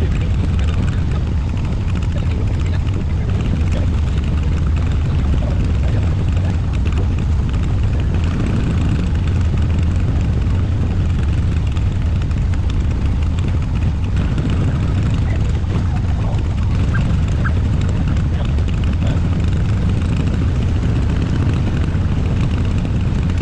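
Car engine running steadily on a ride-along, mixed with wind rushing over the microphone: a constant low rumble with no pauses.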